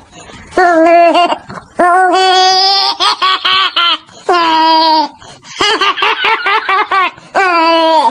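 A high-pitched voice giving long, held calls at a steady pitch, broken by quick runs of short, laugh-like repeated notes.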